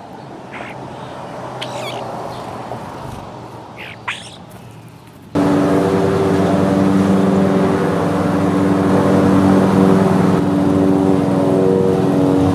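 A few short bird chirps over outdoor background noise. About five seconds in, a loud, steady motor drone with a hum starts abruptly and keeps going.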